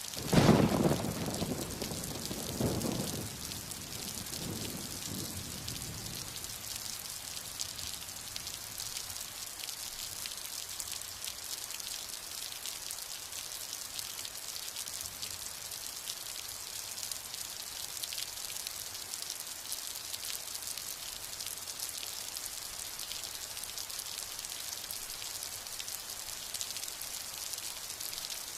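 Steady heavy rain with a clap of thunder right at the start, its rumble rolling twice more and dying away over about six seconds.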